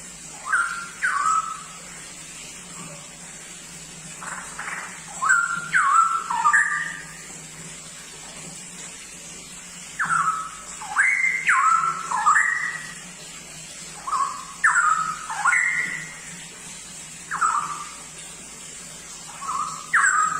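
Straw-headed bulbul (cucak rowo) singing loud phrases of liquid, gliding whistled notes, several notes to a phrase, with gaps of a few seconds between phrases. A faint steady hum runs underneath.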